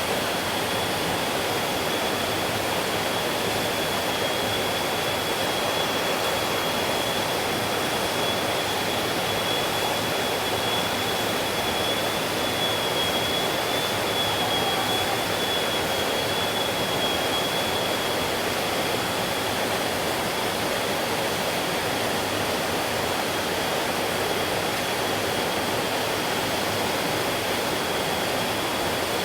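Stream water flowing steadily: a dense, even rush that does not change, with a thin, steady high tone running faintly underneath.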